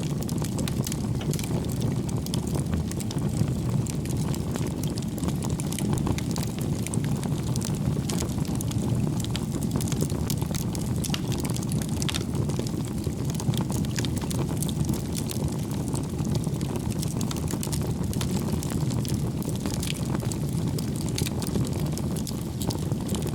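Wood fire burning in a fireplace: a steady low rush of flames with many small, irregular crackles and pops from the burning logs.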